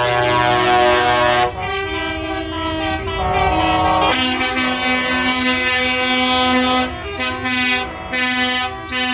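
Truck air horns blowing long held blasts, several notes sounding together like a chord, the notes changing about a second and a half in and again about four seconds in. Near the end the blasts become shorter, with brief breaks between them.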